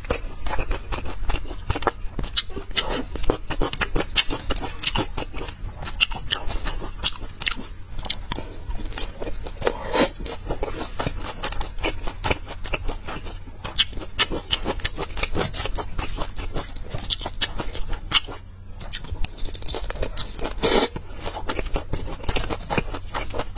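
Close-miked chewing of soft green dumplings: continuous wet mouth sounds and smacking with many small clicks, over a steady low hum.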